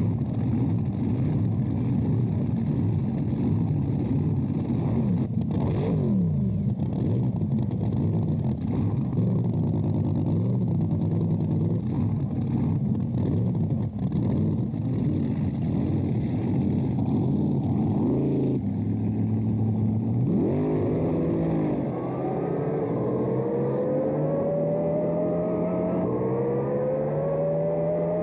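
Drag boat racing engines running at high revs. In the last third, an engine's pitch climbs several times in a row as it accelerates.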